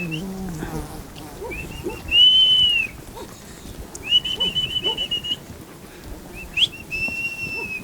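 A shepherd whistling a series of high whistles. There is a short one, then a loud arching one about two seconds in, a warbling one about four seconds in, and a long steady one near the end.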